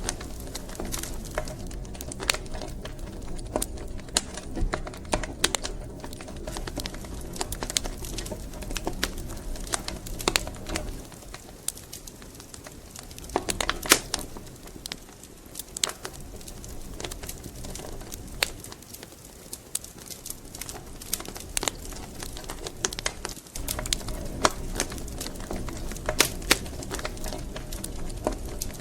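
Wood fire crackling in a fireplace: irregular sharp pops and snaps over a steady low rumble of the flames, with a few louder pops, one of the loudest about fourteen seconds in.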